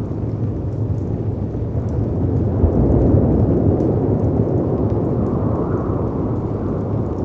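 Storm ambience of wind and breaking sea waves: a deep, steady rush that swells about three seconds in and again briefly near the end, with faint crackles of a wood fire over it.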